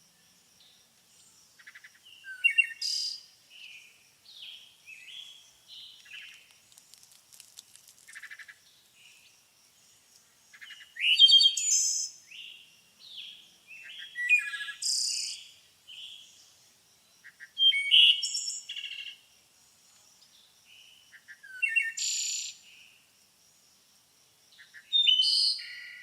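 Songbirds chirping and singing in short, varied phrases of whistles, sweeps and trills, with louder bursts every few seconds, under a faint steady high-pitched hum.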